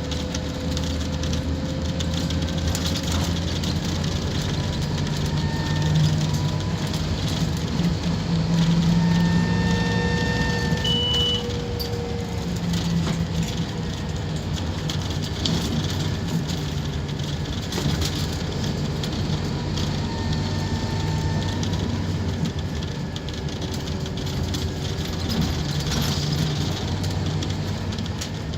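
Scania K230UB Omnilink bus running under way, its diesel engine a steady low drone that swells and eases as it pulls. Over it, a whine from the drivetrain rises and falls in pitch several times as the bus accelerates and slows.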